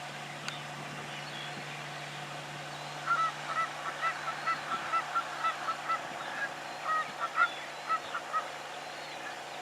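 Birds calling: a run of short honking calls, about two a second, starting about three seconds in and stopping shortly before the end, over a faint steady low hum.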